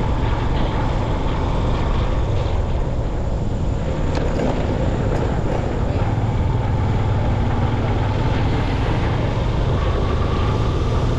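Motorcycle riding at a steady speed: an even engine hum with wind rushing over the microphone.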